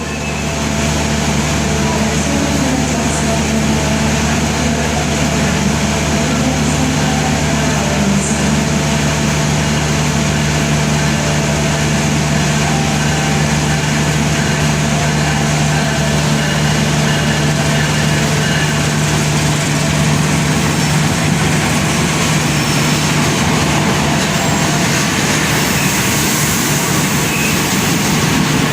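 Passenger train running steadily, heard from aboard: continuous rolling rumble of the wheels on the rails with a steady low hum underneath.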